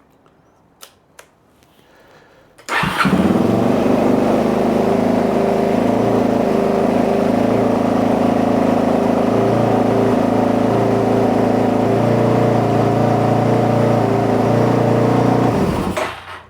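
Suzuki DR-Z's single-cylinder four-stroke engine starts about three seconds in and runs at a steady, even idle, then shuts off near the end. The idle is still too high after the carburettor's idle screw was set 1.5 turns out.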